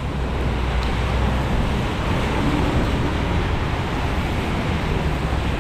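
Steady downpour of rain, an even hiss with a low rumble underneath.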